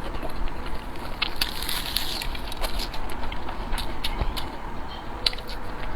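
Close-miked eating sounds: chewing with many short, irregular clicks and crackles over a steady background hiss.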